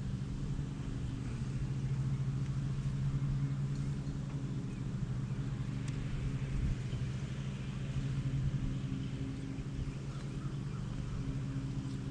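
Steady hum of many honey bees buzzing around an open hive during a frame-by-frame inspection.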